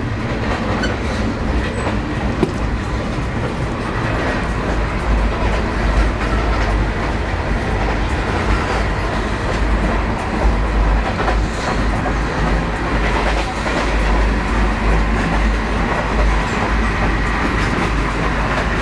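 Interior running noise of an Indian Railways ICF passenger coach in motion: a steady low rumble with scattered clicks and knocks from the wheels and bogies on the track.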